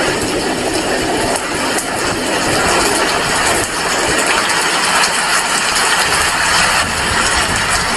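Steady rain falling: a dense, even hiss with no let-up.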